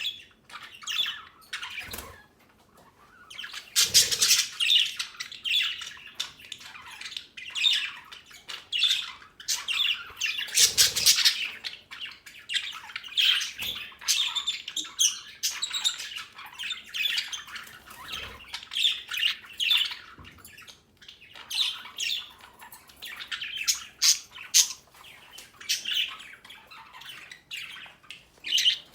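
Young budgerigars chattering and squawking, a dense run of short, irregular chirps and warbles, with a few soft knocks now and then.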